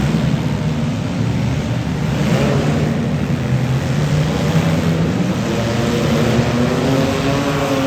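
Several demolition derby cars' engines running at once, loud and continuous, their pitches drifting up and down as they rev.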